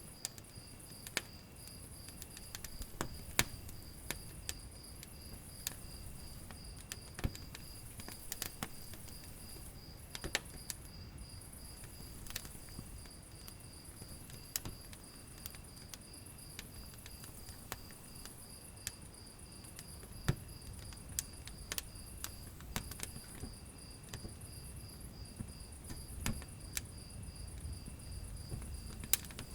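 Wood fire crackling in a fireplace: irregular sharp pops and snaps over a low rumble of the burning logs. A steady, high, evenly pulsed chirping runs underneath throughout.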